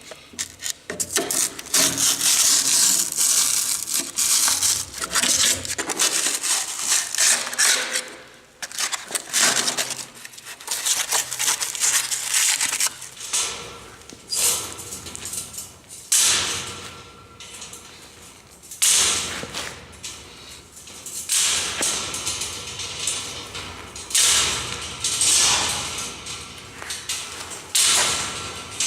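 Irregular scraping and crunching, a series of uneven bursts with short pauses, from hands-on building work with no motor running.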